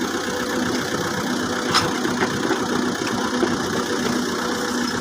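Tractor diesel engine idling steadily, with a short click just under two seconds in.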